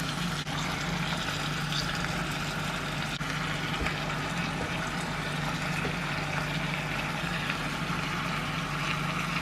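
Chicken thighs and softened onions frying in oil in a tagine, a steady sizzle, with a low hum underneath.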